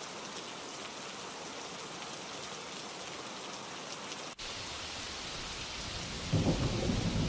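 Steady rainfall, a recorded ambience track, that cuts out for an instant about four seconds in. Near the end a low rumble of thunder builds and becomes the loudest sound.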